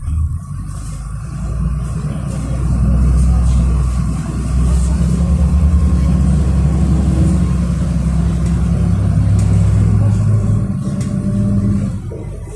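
City bus engine heard from inside the bus, running under load as the bus accelerates, its note rising and dropping in steps, with a low rumble throughout. It gets louder about two seconds in and eases off near the end.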